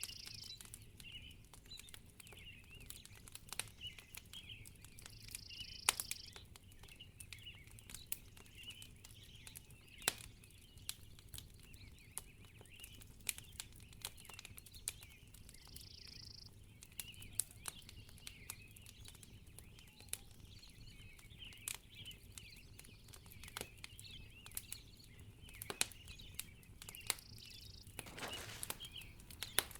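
Fireplace crackling: irregular sharp pops and snaps from burning wood over a faint hiss.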